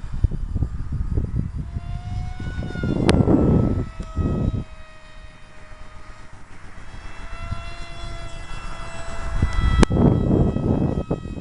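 Motor and propeller of a small radio-controlled flying wing whining as it flies, its pitch rising and falling as it passes and the throttle changes, loudest twice. Gusty wind buffets the microphone throughout, with two sharp clicks.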